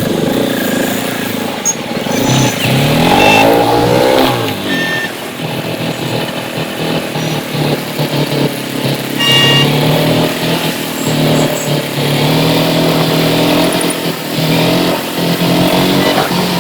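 Motorcycle engine running during a ride, its pitch climbing as it speeds up a couple of seconds in, then settling to a steady drone, with a few short high tones over it.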